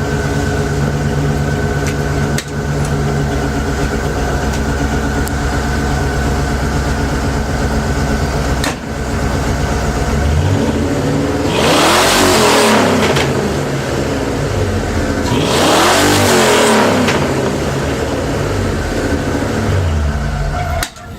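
Car exhaust with stock Mustang headers, a two-cat Mustang H-pipe and a single-chamber Thunderbolt muffler, heard at its side exit in front of the rear bumper: the engine idles steadily, is revved up and back down twice about halfway through, then settles back to idle.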